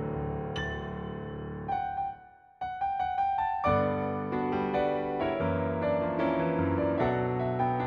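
Solo piano played through the Garritan CFX sampled Yamaha CFX concert grand, from a Disklavier performance. Sustained chords give way to a short break a little over two seconds in. A quick run of repeated high notes follows, then the full chords return.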